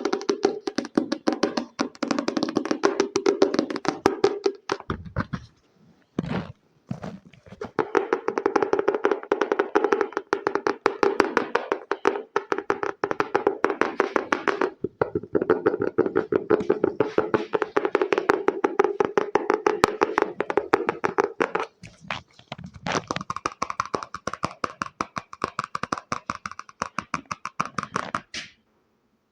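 Fast, continuous tapping by hand on a hard object, many taps a second, with short pauses; the tone turns brighter about two-thirds of the way through, and the tapping stops about a second before the end.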